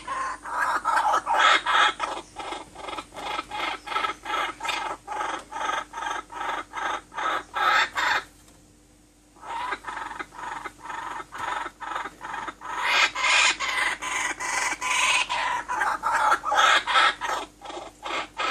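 A fast, even run of short animal calls, about three to four a second, with a pause of about a second just past the middle.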